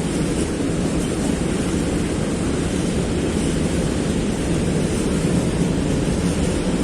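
A train running past on the line, making a steady, even running noise without distinct wheel clicks.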